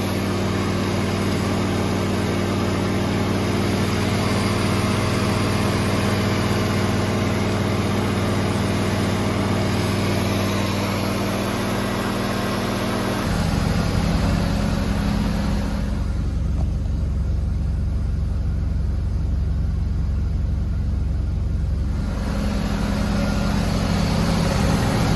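Mazda RX-7 FC's turbocharged 13B twin-rotor rotary engine running steadily at idle after being cleared of flooding. About halfway through, its tone shifts lower.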